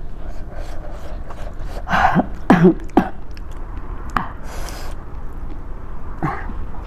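A woman coughing and clearing her throat in a few short bursts, with a sharp breath or sniff in between, as she eats very spicy food and reacts to the chilli heat.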